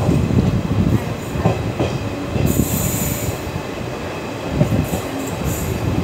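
Passenger train coach running along the track, heard at its window: a steady rumble of wheels on rails, with a brief high squeal about halfway through.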